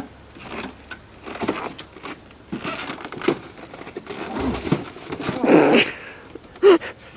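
A person grunting and breathing hard while yanking a snowmobile's recoil pull-start rope over and over, each pull a short rasping stroke. The cold engine does not catch.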